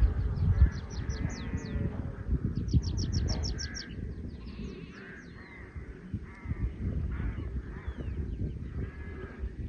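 Birds calling and singing, with two fast runs of high, downward-sliding notes in the first four seconds and scattered calls after, over a low rumbling noise.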